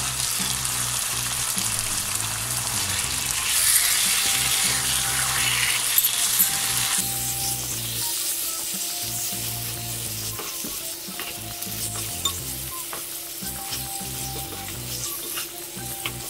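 Raw chicken pieces sizzling as they go into hot oil and tomato-onion masala in a wok, stirred with a wooden spatula. The sizzle is loud for the first several seconds, then settles about seven seconds in to a quieter fry with a few light scrapes and taps of the spatula.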